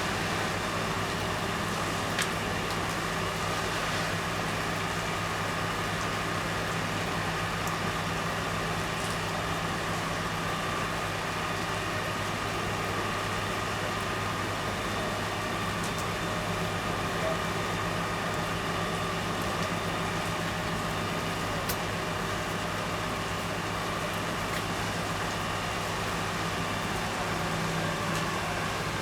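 Fire truck engine running steadily: a constant hum with several held tones and a few faint clicks now and then.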